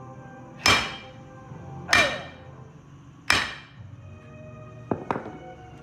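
Hammer striking steel with a ringing clang, three heavy blows about 1.3 s apart followed by two lighter taps near the end, knocking on a truck's driveshaft universal-joint cross.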